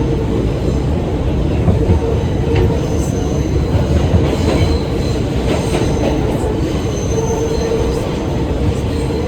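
New York subway train (2 train) running between stations, heard from inside the car: a loud, steady rumble of the wheels on the track, with a thin squeal of the wheels coming and going and a few faint clicks.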